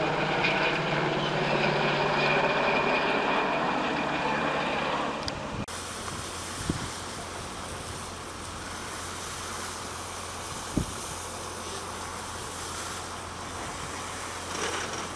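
Steady engine noise with a constant hum. About five and a half seconds in it cuts to a noisier, rushing steady sound with a low hum and a couple of sharp clicks.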